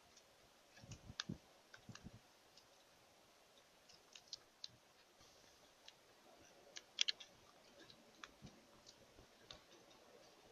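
Faint, scattered sharp clicks and taps at irregular intervals, a few close together, with the loudest pair about seven seconds in, over near silence.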